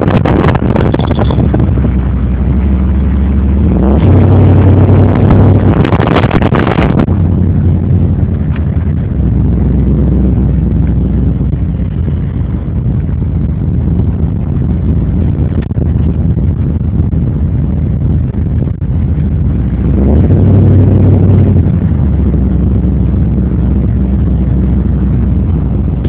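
1991 Chevrolet Caprice Classic's 5.0-litre V8 running as the car drives, getting louder under acceleration about four seconds in and again about twenty seconds in. Wind rushes over the microphone early on, while the camera is held outside the car.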